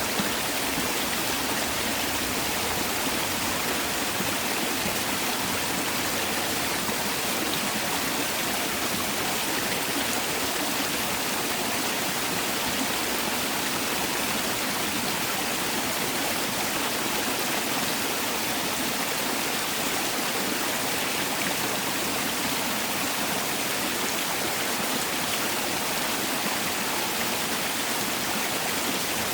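Mountain valley stream rushing over rocks, a steady, even rush of water.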